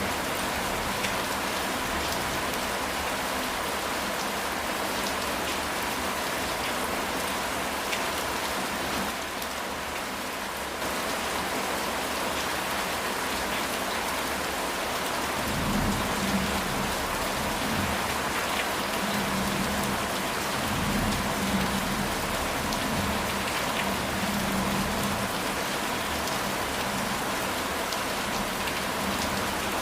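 Steady rain falling on a house roof. Low thunder rumbles in from about halfway through and lasts around ten seconds.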